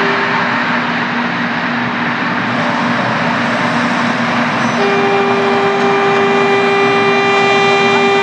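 Train running with a steady rushing noise; its horn sounds a note that ends about half a second in, then a long held blast starts about five seconds in.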